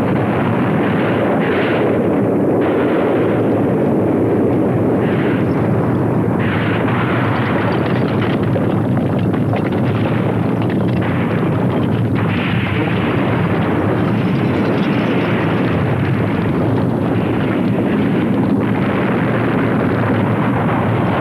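Volcanic eruption: a loud, steady, dense blasting noise that continues without a break.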